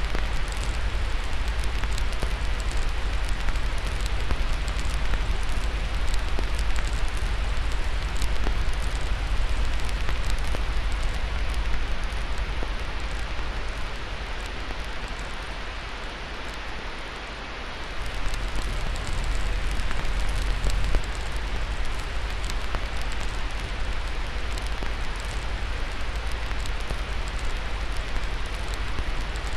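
A steady white-noise hiss mixed with a crackling fire: many small, irregular pops and snaps over an even rushing sound. It eases off for a few seconds a little past halfway, then comes back up.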